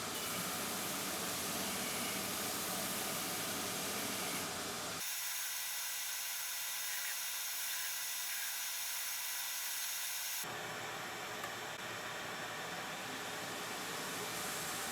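Steady hiss-like noise with no rhythm. It thins abruptly to a higher, lighter hiss with a faint steady tone about five seconds in, and returns to the fuller noise about ten and a half seconds in.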